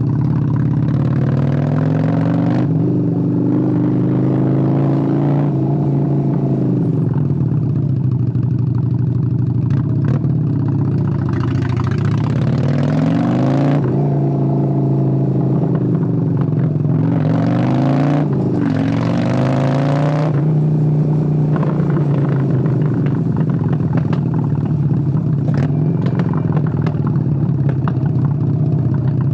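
A 1997 Honda Steed 600's V-twin engine running while the motorcycle is ridden. The engine note climbs in pitch and drops back at each gear change several times, then holds steadier near the end.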